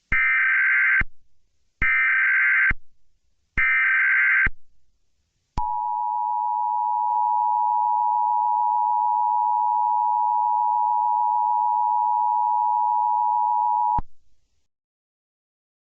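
Emergency Alert System SAME header: three bursts of warbling digital data tones about a second each, then the two-tone EAS attention signal (853 and 960 Hz together), held steady for about eight seconds before cutting off sharply.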